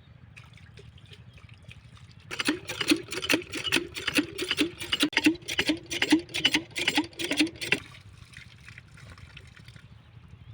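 Water surging from a diesel-engine water pump's outlet in regular spurts, about two or three a second, starting about two seconds in and stopping about three seconds before the end, over a low steady hum.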